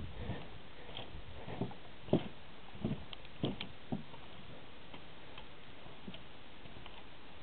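Wooden boardwalk planks knocking under slow footsteps, a handful of short irregular knocks in the first few seconds that then stop, leaving faint steady hiss.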